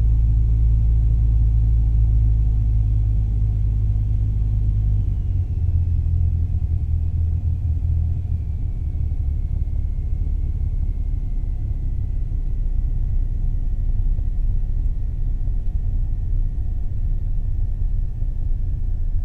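Cessna 172M Skyhawk's four-cylinder Lycoming engine and propeller droning steadily. The drone changes to a slightly different note about five seconds in, and a faint thin whine slowly falls in pitch.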